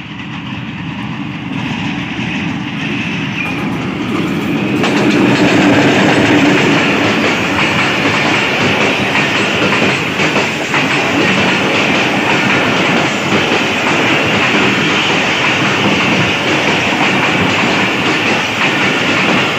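Pakistan Railways passenger train passing close by at about 40 km/h: the diesel-electric locomotive's sound builds as it approaches and is loudest about five seconds in, then the coaches' wheels clatter steadily over the rails.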